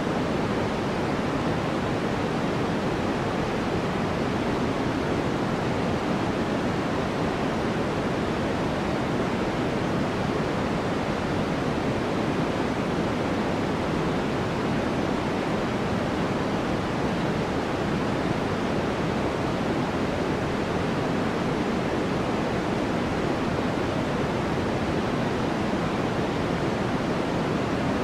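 Steady white-noise background track: an even, unchanging hiss, fuller in the low and middle range than in the treble.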